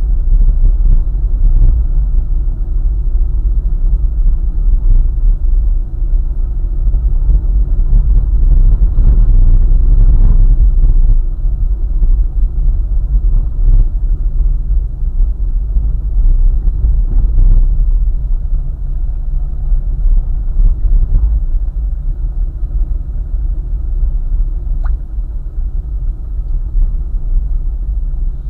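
Car travelling along a highway: a steady low road rumble, heaviest in the deep bass, swelling a little about ten seconds in.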